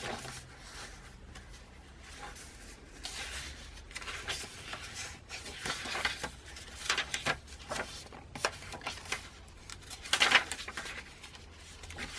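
Paper pages of a handmade junk journal being turned by hand: several separate rustles of paper, the loudest about ten seconds in.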